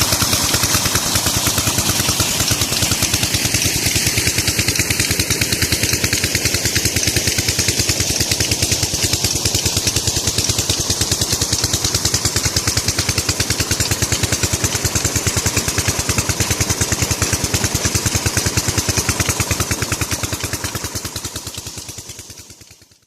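16 hp tube well diesel engine running steadily, driving the water pump, with rapid, even exhaust beats; the sound fades out near the end.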